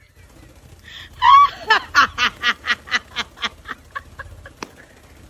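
A parrot making a laugh-like call: one louder, longer note about a second in, then a rapid run of short 'ha' syllables, about four a second, that fade away.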